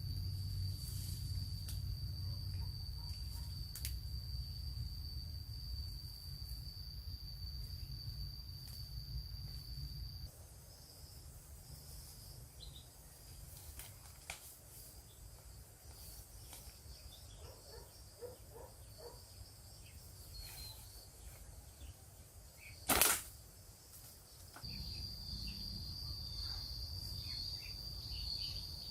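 Outdoor ambience of a steady, high-pitched insect drone over a low rumble. It cuts out abruptly about ten seconds in, then returns near the end. In the quieter stretch a single sharp snap is the loudest sound.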